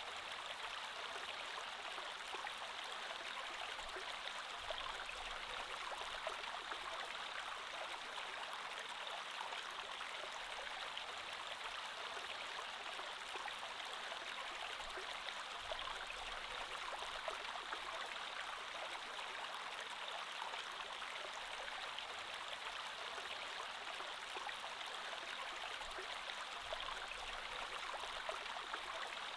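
Creek water flowing steadily over stones, an even rushing with fine babbling detail.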